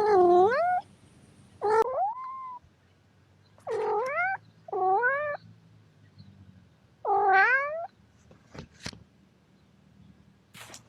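Domestic cat meowing five times in short calls, each dipping and then rising in pitch, the fourth following close on the third. A few faint clicks come near the end.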